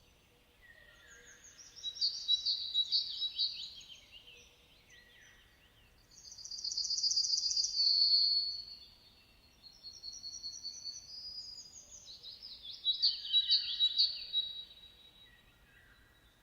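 Songbirds singing in three loud bouts of rapid, high trills and chirps, each a couple of seconds long, with softer chirping between them.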